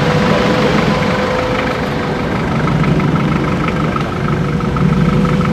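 Land Rover 4x4's engine running out of sight, getting louder about halfway through and again near the end.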